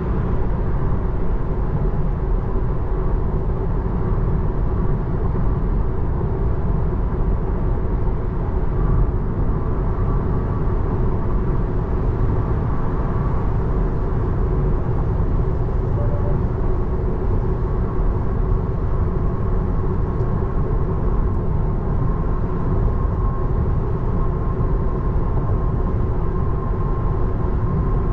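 Steady road and tyre noise inside the cabin of a 2024 Tesla Model 3 Long Range driving on wet pavement in the rain, a constant low rumble and hiss with a faint steady hum.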